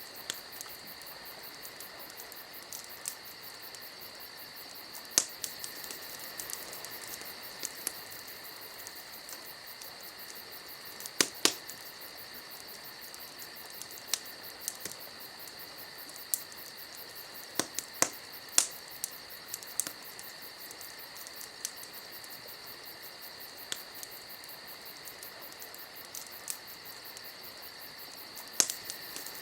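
Campfire crackling: irregular sharp pops and snaps over a steady high hiss.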